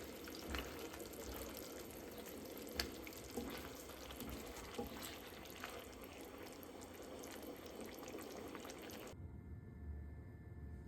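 Kitchen water sounds, with scattered small clicks and knocks, that cut off abruptly about nine seconds in.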